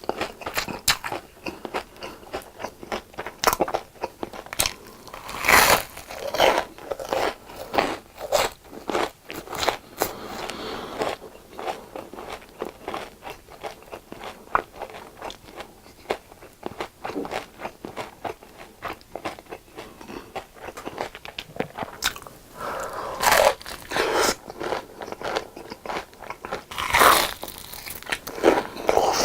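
Crisp, deep-fried food being bitten into and chewed: dense crackling crunches, with louder bursts of crunching about five seconds in and again in the last third.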